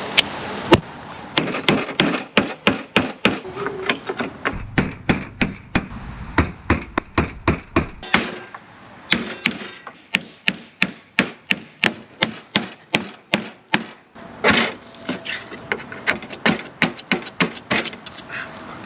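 Repeated hammer blows banging a crushed RV cargo door panel back out, about two to three strikes a second with a couple of short pauses.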